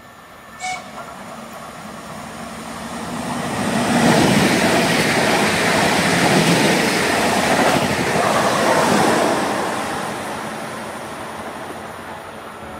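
Koleje Śląskie electric multiple unit passing through the station without stopping: its wheels on the rails rumble louder over about four seconds, stay loud for about five, then fade as the train runs away down the line.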